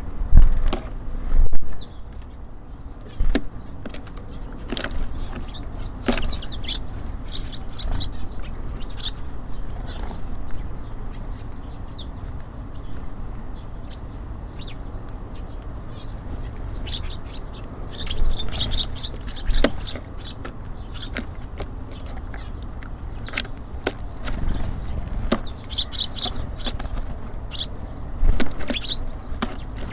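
Small songbirds at a bird feeder: clusters of short, high chirps, with sharp taps and knocks as the birds land and peck at the feeder. The loudest knocks come in the first two seconds, over a steady low rumble.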